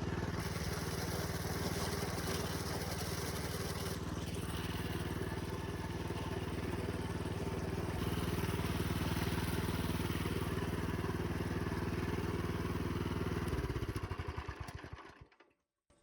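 Small engine of an old minibike running steadily, then shut off about 13 seconds in, its beats slowing over the next second or so until it stops.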